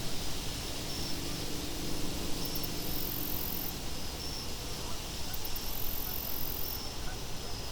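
Steady wind ambience, with a short high chirp repeating every half second or so and now and then a longer, very high trill over it.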